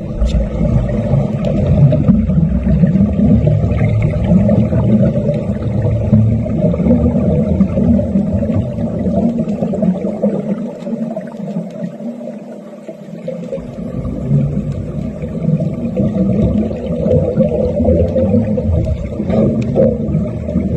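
Underwater wet arc welding: a steady, rough, low buzzing rumble. Its deepest part drops away for about three seconds around the middle.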